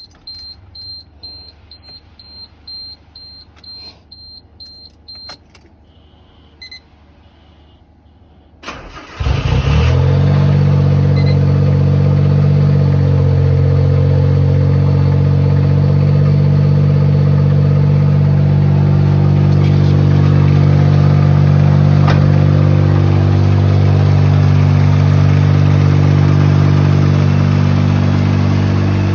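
A run of short, high electronic beeps for about five seconds and a click. Then, about nine seconds in, the Suzuki Cappuccino's three-cylinder engine cranks briefly, catches, and settles into a steady idle.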